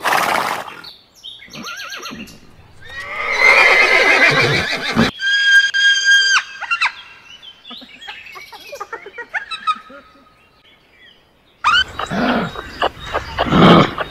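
A run of separate animal calls, one after another with short gaps, including a horse whinnying in a long wavering call about three seconds in.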